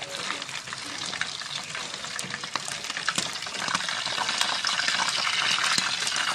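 Chicken pieces deep-frying in hot oil in a small pan: a steady sizzle with dense crackling pops, as a spatula turns the pieces. The sizzle grows louder about four seconds in.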